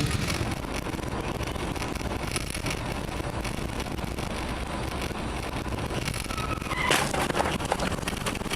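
Steady road and engine noise of a car driving. About seven seconds in there is a brief, louder burst of sharp noise with a short tone.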